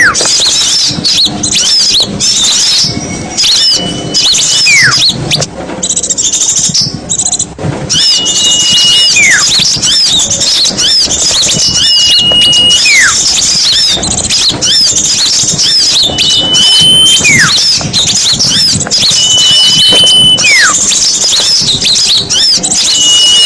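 Bird-lure recording of many small songbirds chirping and chattering together. Over it a loud whistle repeats about every four seconds: a held high note, then a quick falling note.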